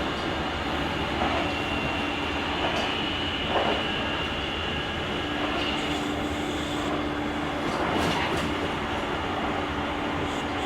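Running noise of a JR Kyushu 883 series limited express electric train, heard from the vestibule of a GTO-inverter motor car. A steady rumble with a constant hum, and a couple of short knocks partway through.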